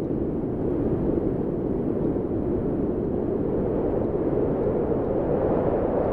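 Wind blowing in a steady low rush, with no tones or other sounds in it.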